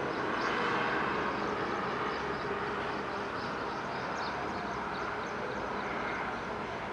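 Steady jet engine noise from a landing Airbus A321, slowly fading.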